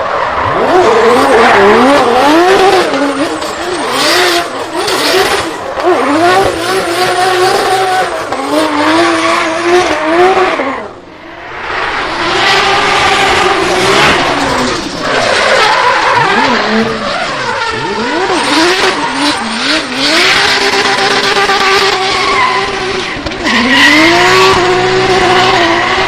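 Drift car engine revving hard and repeatedly, its pitch climbing and dropping as the throttle is worked, over the hiss and screech of spinning, skidding tyres. About 11 seconds in there is a brief lull before the engine and tyres build up again.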